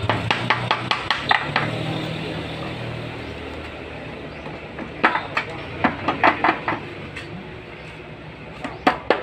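Sharp metal clinks and taps of tools against engine parts while a water-pump engine is taken apart: a quick run of about eight in the first second and a half, another run about five seconds in, and two more near the end.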